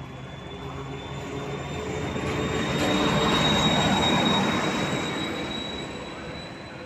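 Czech 'brejlovec' diesel locomotive passing by: the engine and the rolling of the train swell to a peak about halfway through and then fade, with a steady high whine throughout.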